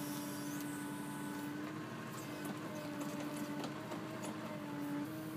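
An engine running steadily under a steady whine, its pitch stepping slightly twice, with a few faint clicks.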